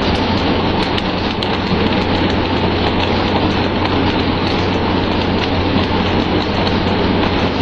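Steady, loud rushing noise with a constant low hum underneath, unbroken throughout.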